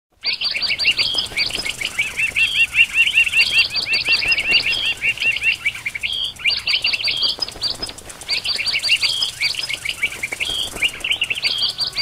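Small birds chirping busily, in runs of quick, high chirps with brief pauses between the runs.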